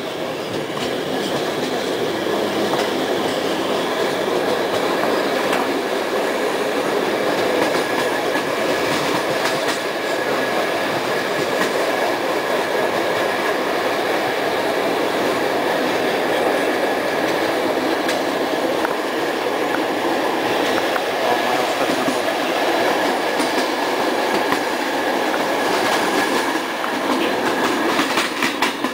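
Passenger coach running at speed, heard from inside: steady rumble of wheels on rail with a thin high whine, getting louder over the first couple of seconds. Near the end, a quick run of clickety-clack as the wheels cross rail joints and points.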